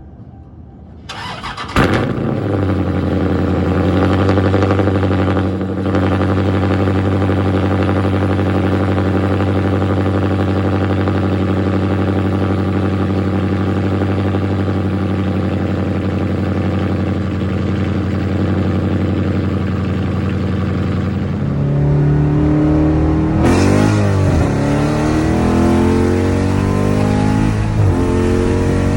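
Car engine with long-tube headers and a straight-piped exhaust starting up about two seconds in, settling into a steady idle, then revved in throttle blips over the last several seconds.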